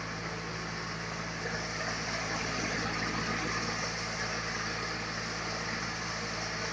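Sawmill machinery running steadily while sawing a large log: a constant low hum under a wide hiss that swells slightly a couple of seconds in.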